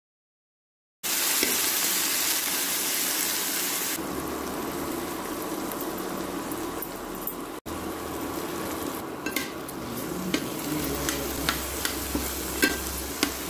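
Onions and chopped tomatoes sizzling and frying in hot oil in a metal pan, starting about a second in, loudest over the first few seconds, then steady. In the second half a spoon stirs the mixture, clicking and scraping against the pan.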